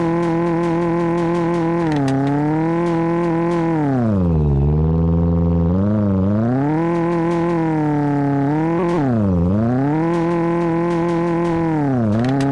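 Tofaş car's four-cylinder engine held at high revs, the revs sagging and climbing back several times as the throttle is eased off and reapplied: a long dip about four seconds in and quicker ones near nine and twelve seconds.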